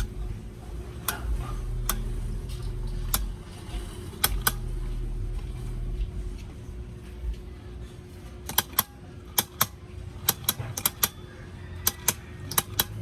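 Sharp, irregular clicks and taps of hand tools and metal parts as the starter's contacts are handled and checked, coming thicker in the second half, over a steady low hum.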